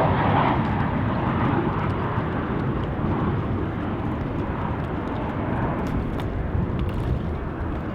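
Jet airliner's engines on its landing run, a steady rushing noise that slowly fades.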